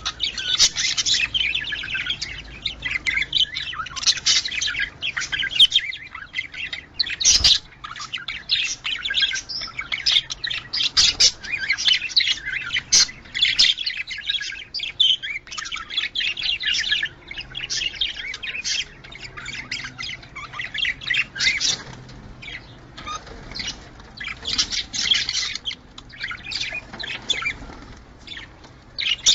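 Budgerigars chattering: fast, continuous warbling chirps and squawks, with one brief knock about seven seconds in.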